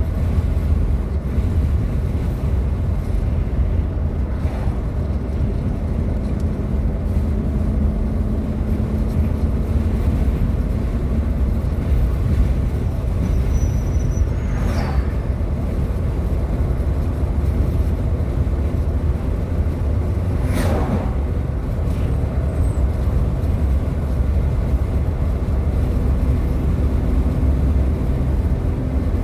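Steady low rumble of road and engine noise inside a moving car's cabin, with two brief sweeping sounds about fifteen and twenty-one seconds in.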